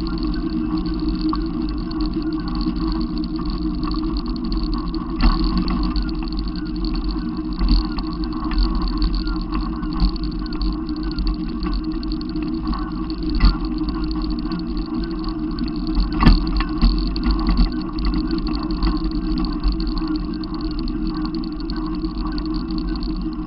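A vehicle's engine and road noise rumbling steadily, with a few sharp knocks now and then.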